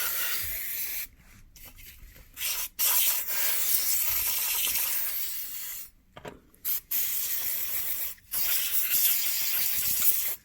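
Can of compressed air duster spraying in repeated bursts of hiss, blowing built-up dust out of a game console's vents. About five bursts with short pauses between, the longest lasting about three seconds.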